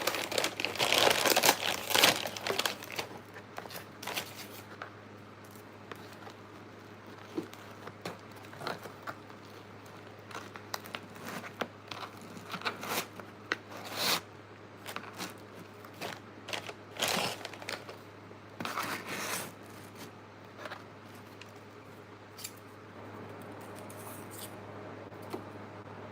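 Paper takeout bag and food wrappers rustling and crinkling as fast-food is unpacked. The rustling is busiest in the first two seconds, then comes in short, scattered crinkles.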